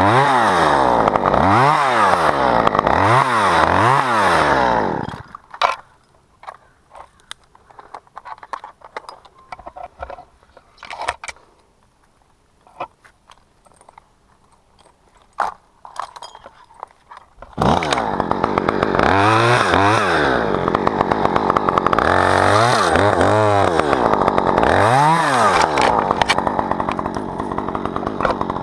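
Chainsaw revving up and down about once a second, then stopping about five seconds in. A quiet stretch with scattered knocks and clicks follows, and the chainsaw starts again suddenly near eighteen seconds in, again revving up and down.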